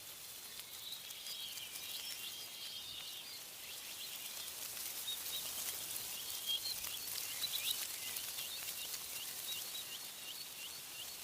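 Songbirds chirping and singing over a steady hiss of wind in tree leaves. From about halfway, one bird repeats a short chirp about twice a second.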